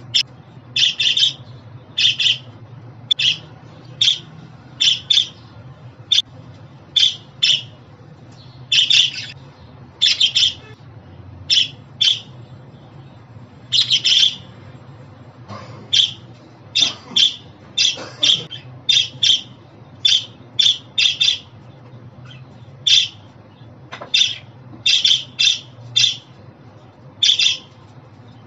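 Budgerigar calling in short, sharp chirps and squawks, singly and in quick runs, over a faint steady low hum.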